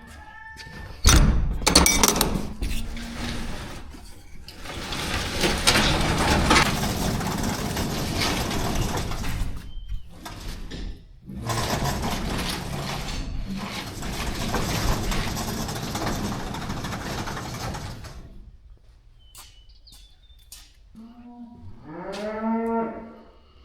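A farm animal calling near the end, a run of quick wavering, rise-and-fall cries. Before that, long stretches of loud rushing noise broken by brief pauses.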